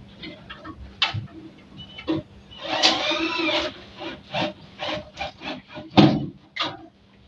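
Irregular knocks, taps and rubbing, as of hand work on wood or panelling, with a brief pitched sound about three seconds in.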